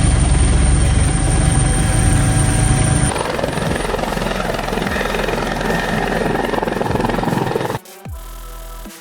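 Helicopter rotor and engine noise, loud and steady with a fast low pulsing; its character changes abruptly about three seconds in. Near the end it gives way to electronic music.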